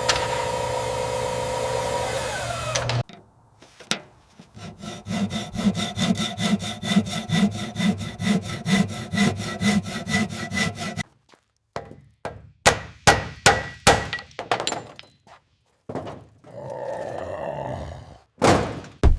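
Hand and power tool work in short cuts: a steady pitched machine that stops suddenly, then a long run of even strokes at about three a second, like sawing or scraping metal, then a series of sharp knocks and a short burst of scraping noise.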